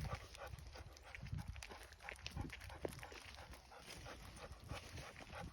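Footsteps and pony hooves on a forest path: scattered soft clicks and crunches.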